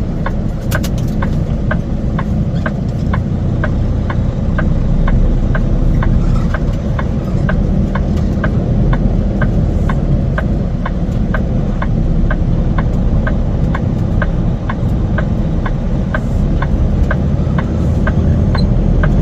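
Semi truck's diesel engine running, heard from inside the cab, with a turn-signal indicator ticking steadily a little over twice a second.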